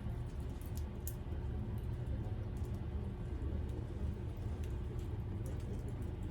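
Wood fire crackling in a Picogrill, with irregular sharp pops over a steady low rumble.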